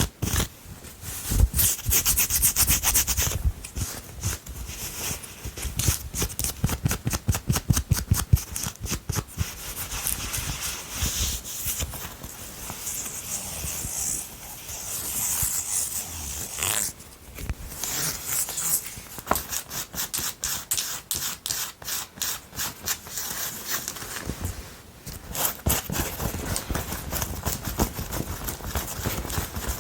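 Long fingernails scratching and rubbing fast on a sweater's fabric, in quick repeated strokes several a second with brief pauses.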